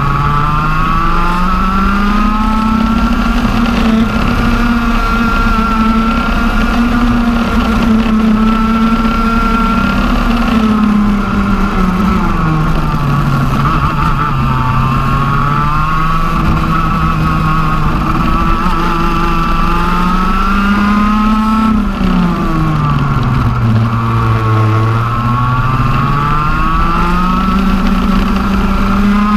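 TM 125 cc two-stroke OK-class kart engine on a CRG KT1 chassis, running at racing speed. Its note climbs and falls smoothly with no gear changes, dropping low twice, about halfway through and more deeply near the end, as it comes off the throttle for slower corners and then pulls back up.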